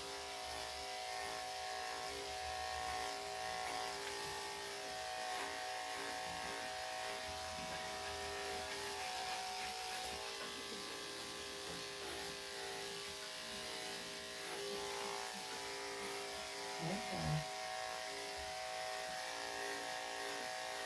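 Electric dog grooming clippers with a #3 3/4 blade running with a steady buzz, swelling briefly again and again as strokes pass through a Yorkshire Terrier's coat.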